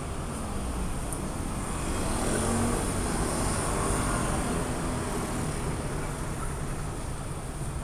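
Steady low rumbling noise that swells louder midway and then eases off.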